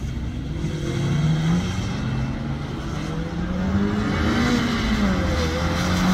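Car engine on a wet track, revving up and down repeatedly as a car is driven hard through tight turns. A hiss of tyres on the wet surface builds toward the end.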